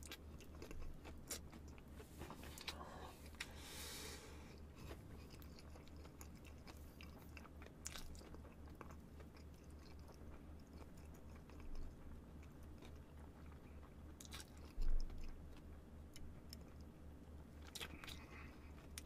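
Slow chewing of a full mouthful of crispy fried chicken, with small crunches and wet mouth clicks, over a steady low hum. A single low thump about fifteen seconds in.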